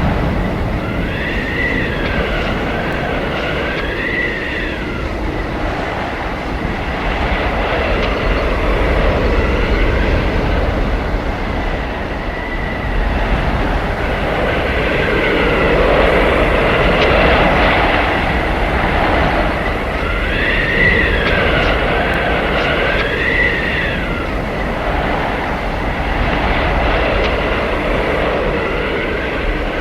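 Blizzard wind howling over a steady low rumble, swelling and easing in gusts every few seconds. Thin high whistling tones waver and bend up and down through the gusts.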